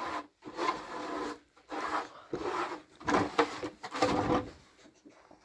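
A series of rubbing, scraping strokes, about six of them, fading out near the end.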